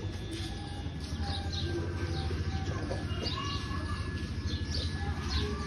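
Small birds chirping repeatedly in short high notes over a low steady rumble.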